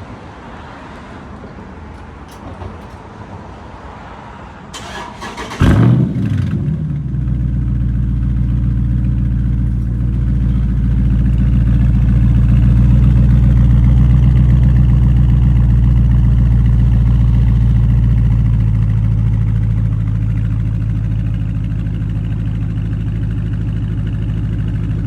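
Cold start of a 392 HEMI V8 (6.4-litre): a brief crank about five seconds in, then the engine catches with a sudden loud flare and settles into a loud, steady fast idle that eases off slightly later on.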